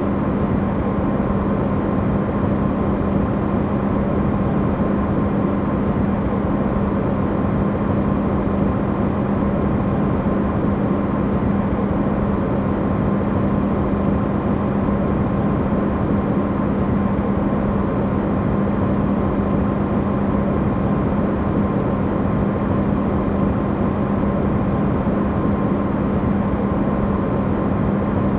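Electrolux refrigerator running, recorded amplified: a steady, unchanging rush of noise with a constant low hum and a fainter higher tone.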